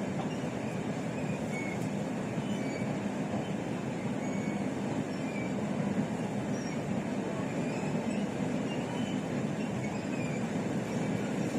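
Steady rumble of a moving Chu-Kuang Express passenger train heard from inside the carriage: wheels rolling on the rails, with faint short high squeaks scattered through it.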